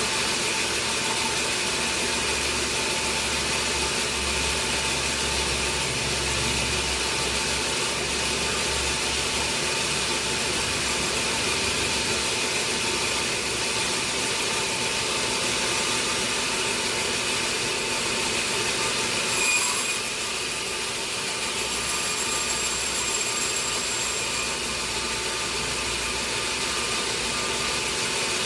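Sawmill saw running steadily through a large teak log, a constant mechanical whine with steady high tones. Briefly louder about two-thirds of the way through.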